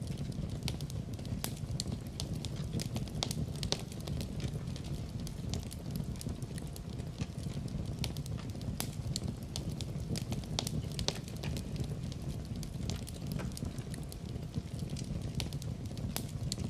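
Wood fire burning in a fireplace: a steady low rumble of flames under frequent irregular pops and crackles.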